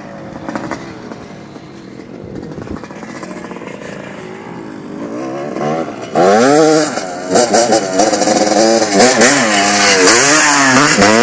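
Dirt bike engines. One runs at a moderate level at first. About six seconds in, a bike comes in loud and close, its pitch rising and falling again and again as the throttle is worked.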